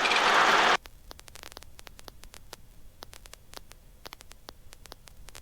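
Loud hiss on the headset intercom or radio audio feed that cuts off abruptly under a second in. It leaves faint, irregular crackling static clicks.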